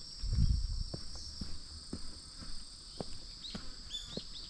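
Crickets and other autumn insects trilling steadily, with walking footsteps ticking about twice a second. A brief low rumble about half a second in.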